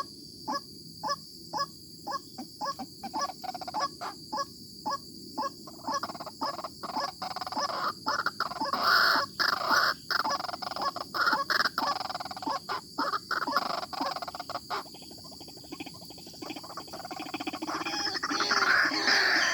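White-breasted waterhen calling: short calls repeated about twice a second, quickening into a dense, louder run of calls, easing off near the end and then building again.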